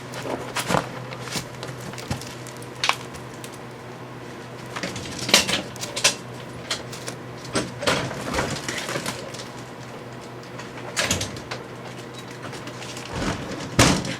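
Scattered clicks and knocks, like a microwave oven's door and insides being handled, over a steady low hum; the loudest knocks come about five seconds in and near the end.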